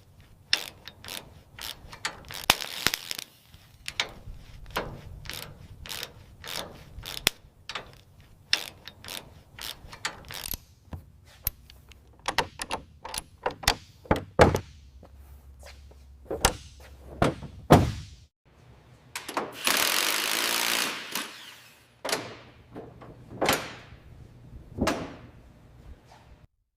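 Hand-tool work in a workshop: a long run of sharp mechanical clicks and metal knocks. About three-quarters of the way through comes a rushing noise lasting about two seconds.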